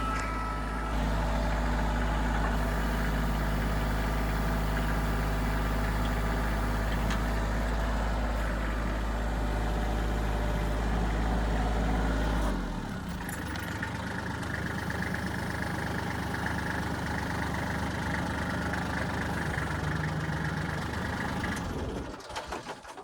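Kubota L3400 compact tractor's diesel engine running steadily. About halfway through, its note changes and the deep rumble drops away, and a few seconds before the end the engine sound fades out.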